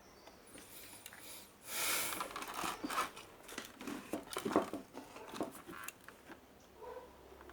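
Handling noise: a run of rustles, scrapes and clicks, loudest about two seconds in, then tailing off.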